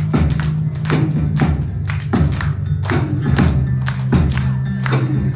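Live band playing an instrumental introduction before the vocals come in: a steady drum beat of about two hits a second over a sustained low bass line.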